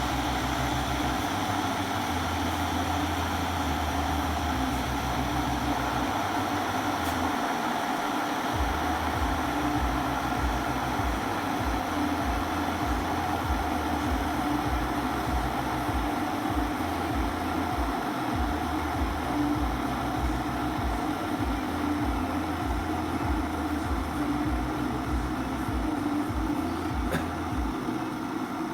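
Electric kettle heating water: a steady rushing hiss with an uneven low rumble underneath.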